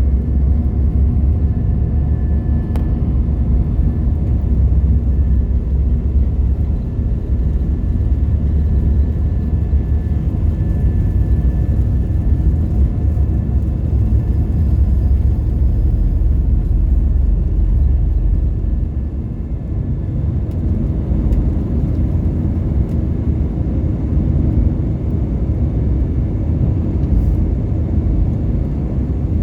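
Jet airliner cabin noise during takeoff: a steady low rumble of the engines and rushing air, with a faint high whine over it. The rumble eases briefly about twenty seconds in.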